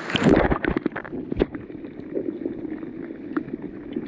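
River water splashing and churning right at the camera for about a second, then a muffled, steady water sound with a few faint clicks.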